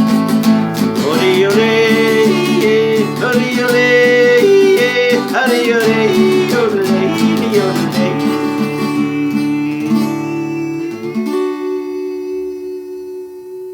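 Instrumental ending of a song: acoustic guitar with a melody line gliding over it, then a final chord held and fading near the end.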